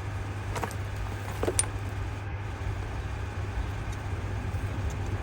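Two short, light metal clicks from brake caliper parts being handled and fitted, over a steady low hum.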